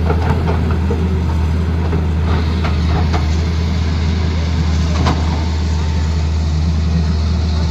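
Tata Hitachi excavator's diesel engine running steadily, with a few short sharp knocks or scrapes over it.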